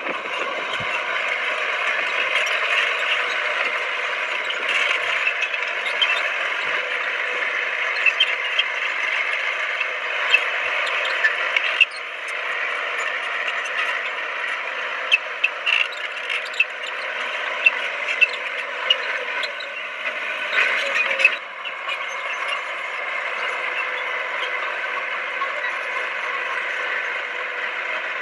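Komatsu D20P crawler bulldozer's diesel engine running steadily while the machine works, with scattered metallic clanks and clicks from its steel tracks and blade.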